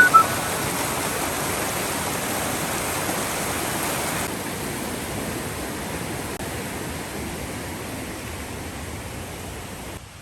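Steady rushing water, an even hiss spread from low to high pitches, growing quieter a little at a time. A few short high notes sound right at the start.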